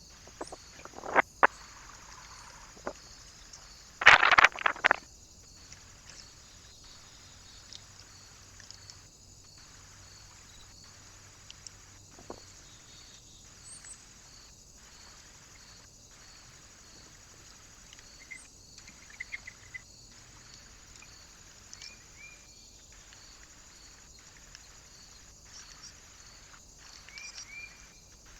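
Trail-camera recording at a bird feeder: steady electronic hiss, a few sharp knocks just after a second in, and a louder rustling clatter about four seconds in. Later come a few faint short chirps.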